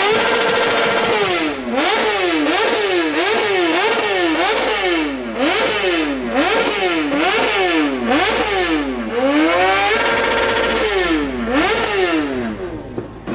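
Motorcycle engine revved again and again, its pitch climbing and dropping about one and a half times a second in a steady rhythm, with a short break near the end.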